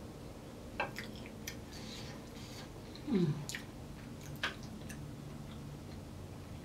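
Close-up mouth sounds of eating sauce-dipped king crab meat: wet chewing with sharp lip-smacking clicks every half second or so, and a short falling 'mmm' about three seconds in.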